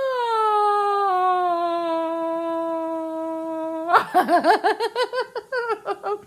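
A woman's voice singing one long held note that glides down and then holds steady, breaking off about four seconds in into a quick run of short, bouncing, laugh-like sounds.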